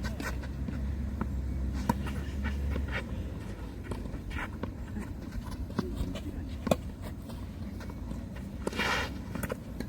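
A few sharp knocks of tennis balls, one about two seconds in and one near seven seconds, over a low rumble, with a short hiss near the end.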